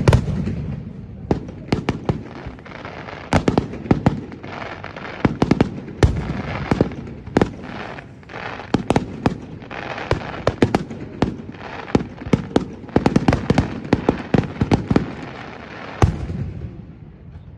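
Fireworks display: a dense barrage of shell bursts and crackling, several sharp bangs a second, ending with one last loud burst about sixteen seconds in before it dies away.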